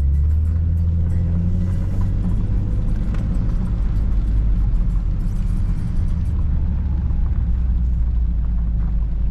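Car driving, a steady low engine-and-road rumble with no clear changes.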